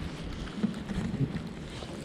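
Blizzard wind buffeting the microphone: a gusty low rumble that rises and falls.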